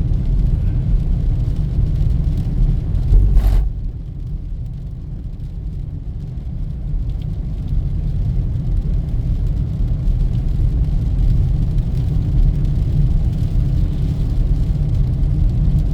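Steady low road rumble of a car driving, heard from inside the cabin. There is a short loud burst of noise about three seconds in, then the rumble drops for a few seconds before building again.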